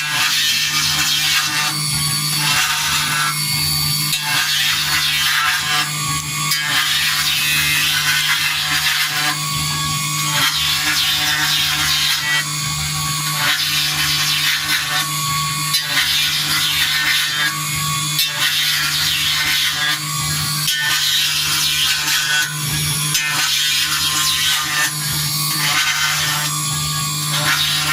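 CNC engraving machine cutting a design into a silver plate: a steady motor hum under a high-pitched scraping hiss from the cutter. The scraping breaks off briefly and resumes every few seconds.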